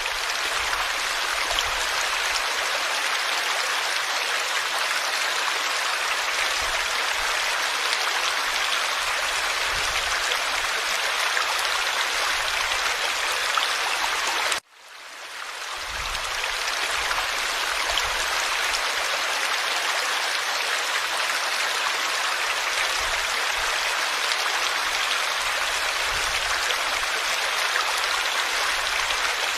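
Forest water stream flowing steadily with a dense rushing babble. About halfway through, the sound drops out for a moment and fades back in.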